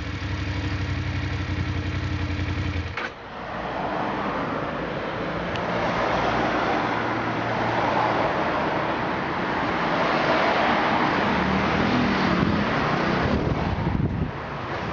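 BMW F 850 GS parallel-twin engine idling steadily, cut off abruptly about three seconds in. A steady rushing, wind-like noise follows for the rest of the time.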